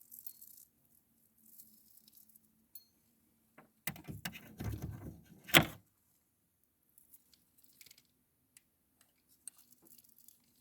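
Fishing gear being handled: small metallic clicks and rattles, then a louder rustling clatter about four to six seconds in that ends in a sharp knock.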